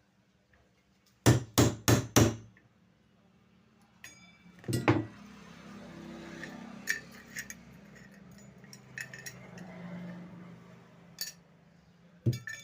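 A hammer striking a pointed punch to knock out the rivets that hold a table fan motor's shaft bush in its end shield: four quick blows about a second in, another a few seconds later, then lighter metal clinks and handling of the parts, and a last knock near the end.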